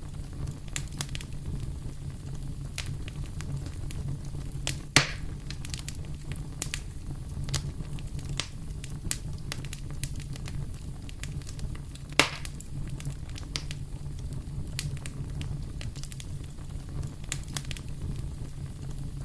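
Wood fire in a fireplace crackling: a steady low rumble of flames with scattered small snaps, and two louder pops, about five seconds in and about twelve seconds in.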